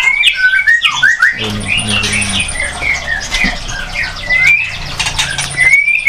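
Caged songbirds calling: a busy run of many short whistled chirps, each gliding up or down in pitch, with a faint low hum underneath through the middle.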